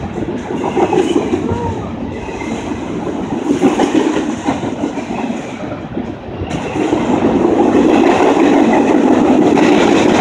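Freight train cars rolling past: steady rumble of steel wheels on the rails with a clickety-clack of wheels over the rail joints. It dips briefly past the middle, then grows louder and steadier.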